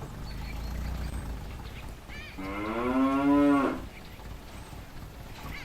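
A cow mooing once, a single long call of about a second and a half, over a low steady rumble.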